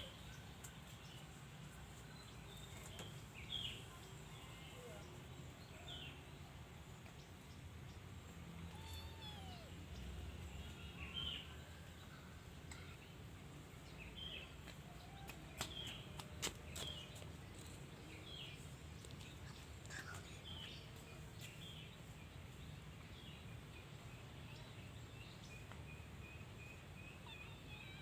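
Faint low steady rumble with scattered short, high bird chirps, and a quick run of evenly spaced chirps near the end.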